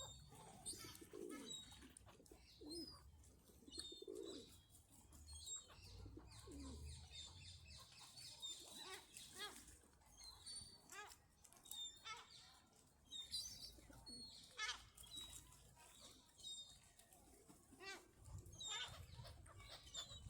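Faint calls of birds gathered at a feeding: a few short low calls in the first five seconds and scattered brief high chirps, with light ticks and rustles.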